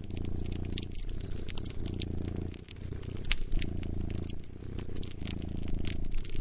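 Domestic cat purring close up, a low steady purr that rises and falls with each breath every second or two. Over it a wood fire crackles with frequent sharp pops.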